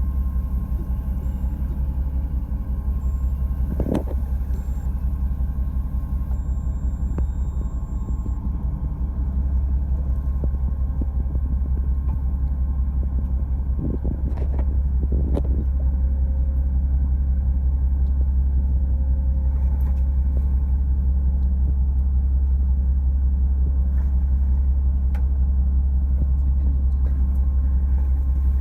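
Fishing boat's engine running steadily with a low rumble, with a few brief knocks about four seconds in and again around fourteen to fifteen seconds in.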